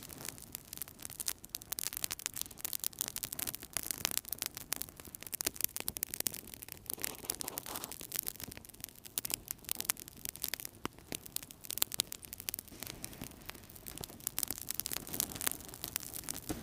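Wood fire burning in a fireplace, with dense, irregular crackling and popping over a soft hiss.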